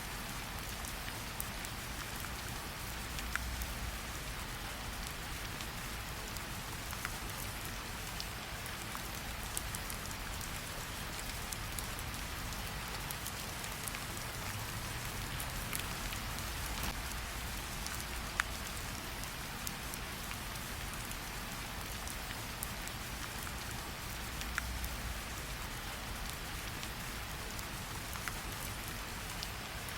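Steady rain falling, with scattered sharp ticks and crackles and a few soft low swells.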